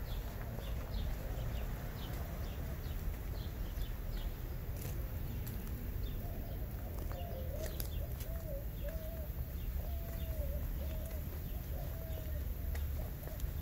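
Birds calling outdoors: a quick run of short, high chirps, then from about six seconds in a string of lower, wavering coo-like calls. A steady low background rumble runs underneath.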